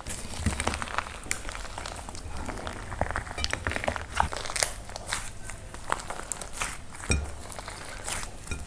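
Dry plaster clay being cracked and crumbled by hand: a continuous run of crisp crunches and crackles, with several sharper snaps among them.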